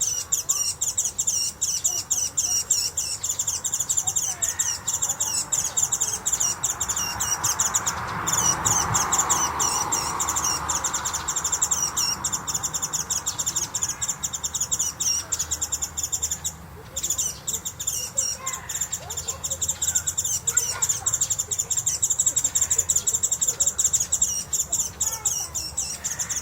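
Japanese white-eyes giving their high, thin contact calls (jinaki): many short calls in quick succession from several birds at once, with a brief pause about two-thirds of the way through.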